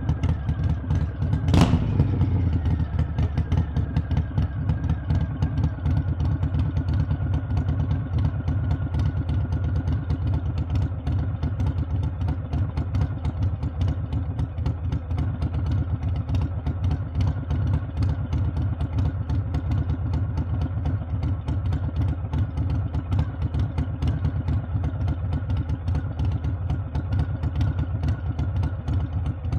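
Harley-Davidson V-twin engine and exhaust running steadily while the motorcycle is ridden, with one sharp knock about one and a half seconds in.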